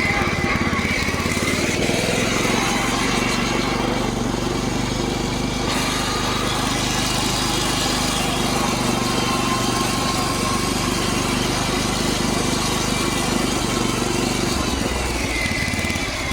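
Old Toro lawn tractor's engine running steadily, really loud even with a muffler.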